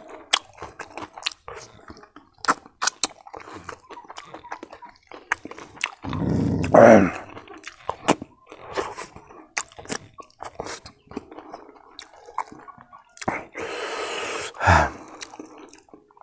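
Close-up chewing and mouth sounds of a person eating rice and roasted pork fat by hand: a steady run of wet clicks and crunchy bites, broken twice by a short voiced sound from the eater, about six seconds in and near the end.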